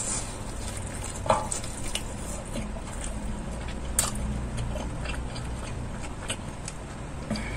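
A person chewing a bite of fried chicken leg: wet mouth sounds and small crackles, with sharp clicks about a second in and about four seconds in.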